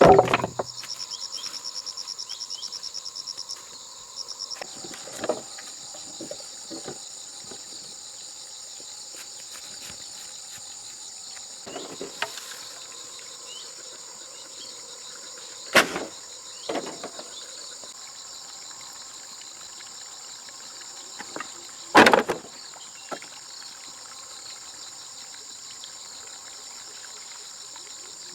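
Insects chirping steadily in a high, continuous drone, with a fast pulsing trill during the first few seconds. A few sharp knocks, the loudest right at the start and another about two-thirds of the way through, with fainter taps between.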